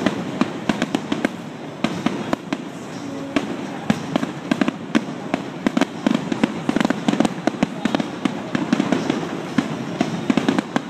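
Fireworks going off in a rapid, continuous barrage: many sharp bangs and crackles a second over a steady rumble, with no pause.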